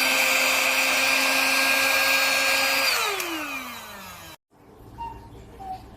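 Cordless handheld mini vacuum cleaner running with a steady high-pitched motor whine over rushing air. About three seconds in it is switched off and the whine falls in pitch as the motor spins down, and the sound cuts off abruptly about a second later.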